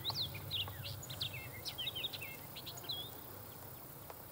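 A songbird singing a rapid string of varied chirps, short whistles and sweeping notes that stops about three seconds in, over steady low background noise.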